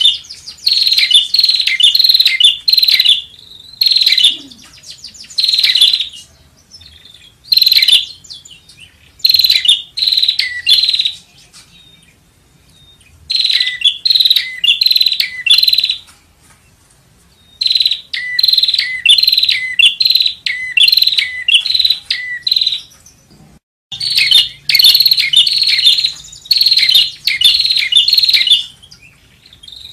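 Prinia (prenjak) singing: a rapid string of sharp, high chirps repeated in bursts of one to three seconds, separated by short pauses.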